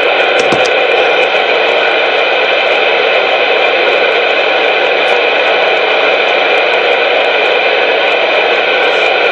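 Steady, loud hiss of static coming over a CB radio channel from a keyed-up transmission, with a few faint steady tones running through it.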